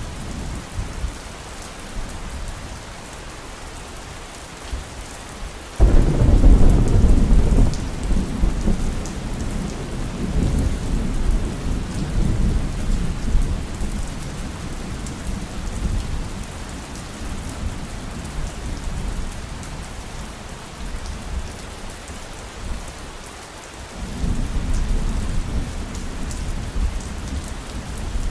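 Heavy rain falling steadily with thunder: a sudden loud crack and rumble about six seconds in that rolls on and slowly dies away, and another rumble of thunder starting near the end.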